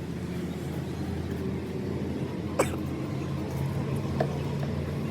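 Diesel engine running steadily at low speed, with a sharp click about two and a half seconds in and a lighter one near the end.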